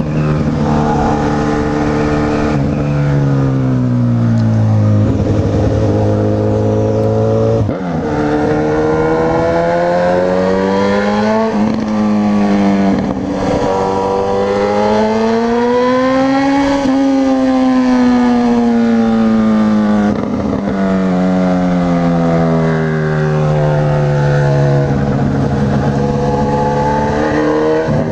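Honda CB1000R's inline-four engine under way, its pitch climbing and falling as the bike speeds up and slows, with short breaks at gear changes, over wind rush on the microphone.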